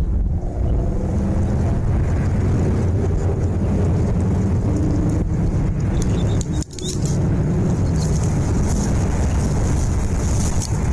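Steady low rumble, with a brief break about two-thirds of the way through.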